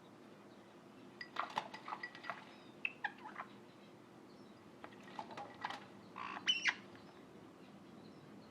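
Pet caique giving short chirps and squeaks in a few quick clusters, with brief pauses between them.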